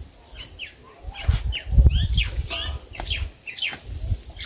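Chickens calling: a quick run of many short, high chirps, each sliding downward, over a low rumble.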